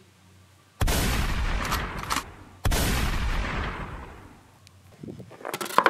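Two loud booming bangs about two seconds apart, each echoing away over a second or so, then a brief clatter of sharper knocks near the end.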